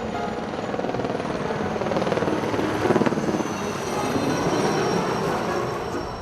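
A rapidly pulsing engine passing close by, building to its loudest about three seconds in.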